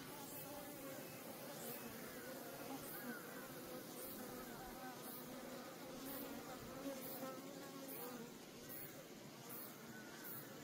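Many native Korean honeybees (Asian honeybees) buzzing together at a wild colony, a steady hum of wingbeats whose pitch wavers as individual bees fly past.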